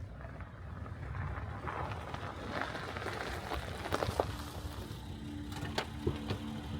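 Outdoor ambience on the camera microphone: a low rumble with scattered crackles and clicks, and a steady low hum that comes in about four seconds in.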